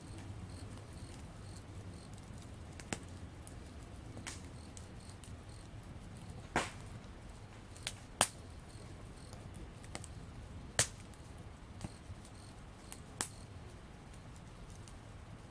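Wood campfire burning: sharp crackles and pops at irregular intervals over a low, steady hiss.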